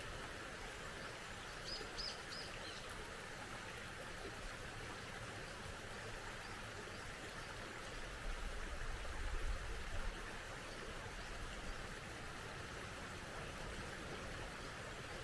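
A small stream running steadily, with a bird giving three quick high chirps about two seconds in. A low rumble swells for a couple of seconds just past the middle.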